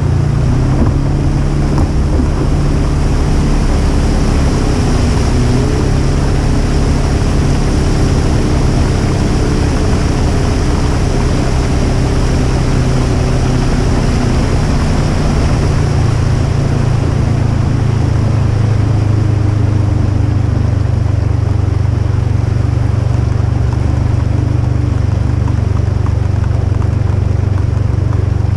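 Polaris RZR 1000 side-by-side's engine running loud and steady at a near-constant pitch, with a rushing wash of noise over it.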